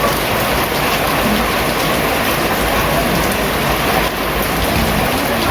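Heavy rain falling steadily, a dense, even hiss of drops striking a surface.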